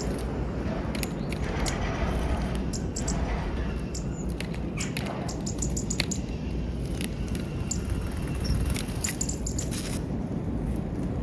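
Birds pecking at peanuts at a feeder: irregular short, sharp clicks and ticks over a steady low rumble.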